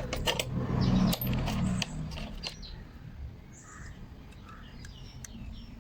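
Small metal clicks and taps from starter motor parts being handled during brush holder reassembly, busiest in the first two seconds, then quieter.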